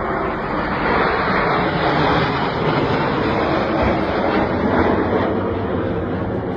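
Aircraft flying by, its engine noise a loud rushing sound that swells over the first second and then holds steady.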